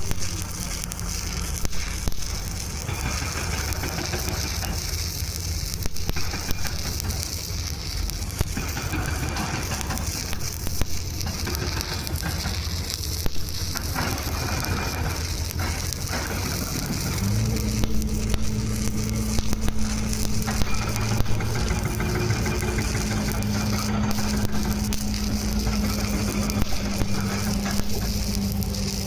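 Arc welding on a pipe joint in the 6G position: the arc crackles and sizzles steadily with scattered sharp pops, over a low electrical hum from the welding set that steps up about seventeen seconds in.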